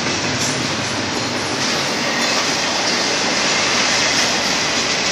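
Double-stack intermodal freight cars of a Union Pacific train rolling past: a steady rush of steel wheels on rail, with a few faint clicks over rail joints.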